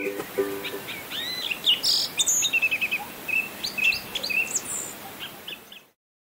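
Small songbirds chirping and singing: many short high chirps and quick rising notes, some repeated in fast runs, after the last few notes of a plucked ukulele tune. The sound cuts off suddenly near the end.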